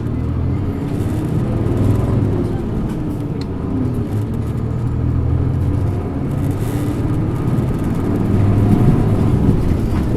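Isuzu Erga PJ-LV234N1 city bus's diesel engine pulling under way, heard from inside the bus, its pitch climbing and dropping several times as it accelerates and shifts through the gears.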